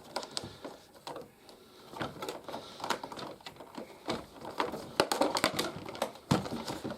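Hard plastic toy playset parts clicking and knocking as they are handled and snapped together, an irregular run of sharp clicks that grows busier and louder about five seconds in.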